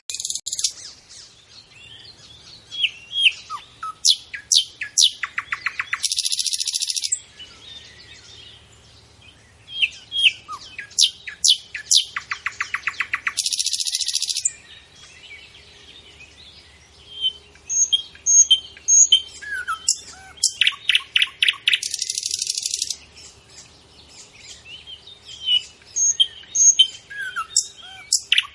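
Bird calls in a sequence that repeats about every seven to eight seconds: a string of sharp high chirps, a fast rattling trill, then about a second of hiss.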